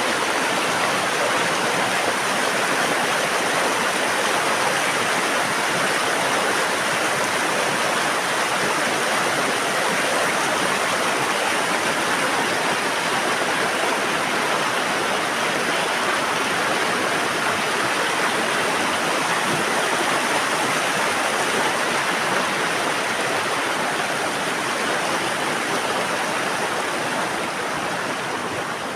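Fast-flowing mountain river rushing, a steady, loud wash of water that eases off slightly near the end.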